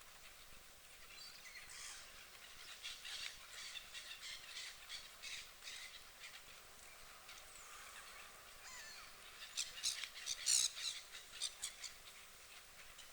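Birds calling outdoors: a string of short, sharp calls, coming thickest and loudest about ten seconds in.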